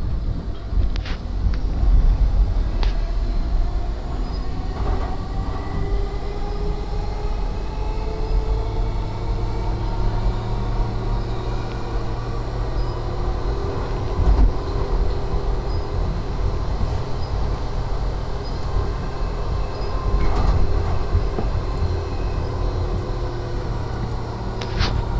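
Passenger train running: a steady low rumble with a whine of several tones that rises slowly in pitch as it gathers speed, and a few sharp clicks.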